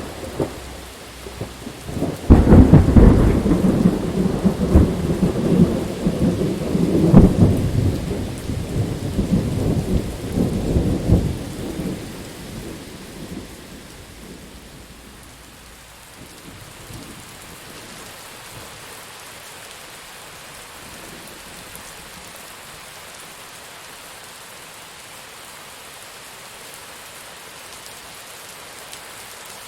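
Steady rain with a loud roll of thunder. A sharp crack comes right at the start, then the main rumble begins about two seconds in, goes on for about ten seconds with several peaks, and fades away, leaving only the rain.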